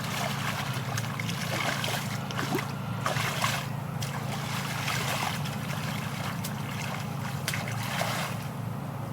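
Water splashing and sloshing in shallow muddy water, with irregular short splashes, over a steady low hum.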